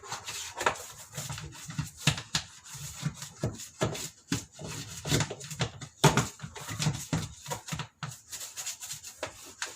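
Toothbrush scrubbing the dirty plastic pulsator of a washing machine: irregular rubbing strokes with sharper knocks and clicks of the plastic part being handled.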